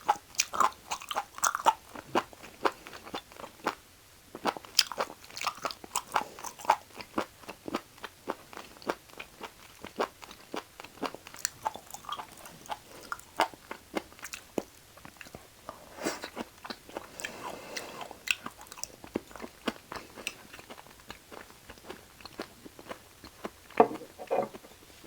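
Close-miked mouth sounds of someone eating raw beef offal: wet, sticky chewing with many quick crunchy bites and clicks, with one sharper, louder bite near the end.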